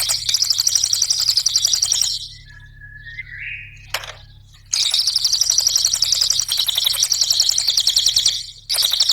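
A cililin songbird singing a rapid, high-pitched chattering trill in long bursts. The song breaks off about two seconds in for a couple of seconds, with only a few softer notes and a click in the gap, then starts again and pauses once more briefly near the end.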